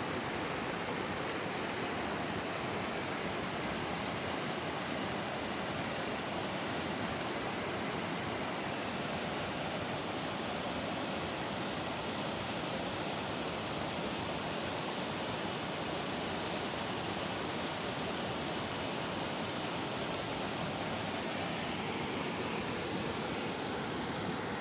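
Floodwater rushing steadily in a large, continuous flow.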